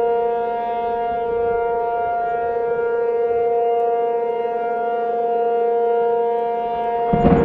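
Outdoor civil-defense warning siren sounding a steady, held wail that swells and fades gently in loudness, the alarm for a tornado warning. Near the end a rough burst of noise comes in under it.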